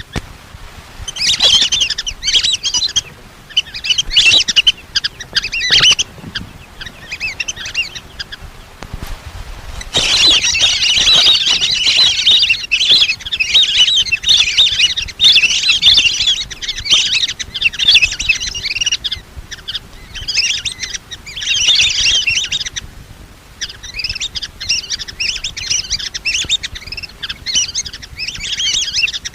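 A flock of lesser whistling ducks calling: many shrill, whistled chirps in bursts, nearly without a break from about ten seconds in. This is the call used as a decoy to lure the birds in.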